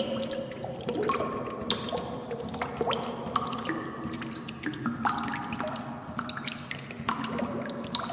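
Water drops falling irregularly, several a second, each a short plink with a brief ringing pitch, over a steady low background.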